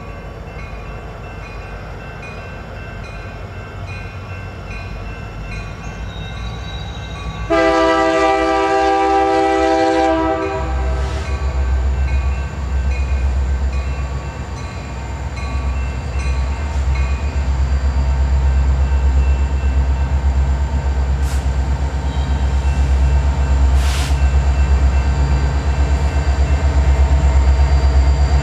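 Two CN EMD SD75I diesel-electric locomotives hauling a freight train: engine rumble, one horn blast about 7 seconds in lasting nearly 3 seconds, then the diesel rumble growing much louder as the locomotives come close. A bell rings repeatedly in the background before and after the horn.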